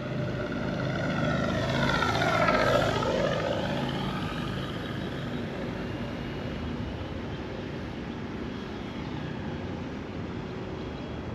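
Electric FlightLine Corsair RC model warplane flying past, its motor and propeller sound dropping in pitch as it passes about two to three seconds in, then fading to a steadier, quieter drone as it flies away.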